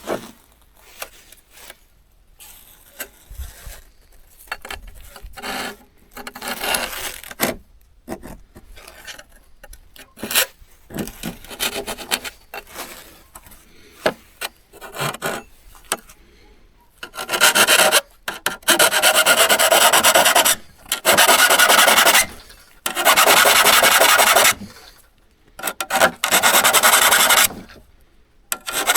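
Hand abrading of an old hand saw's steel: scraping and rubbing strokes. They are sparse and quiet at first, then after the middle turn into long, loud stretches of one to two seconds each, with short pauses between.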